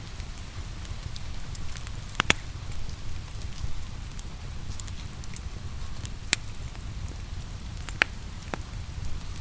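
Wood fire crackling, with a few sharp pops over a steady low rumble, layered with the steady hiss of rain.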